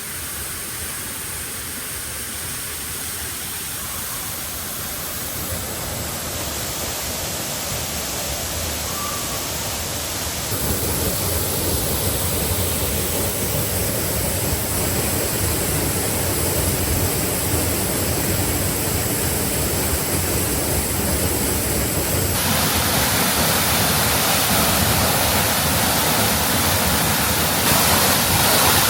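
Waterfall rushing as a steady wash of falling water, growing louder in a few steps.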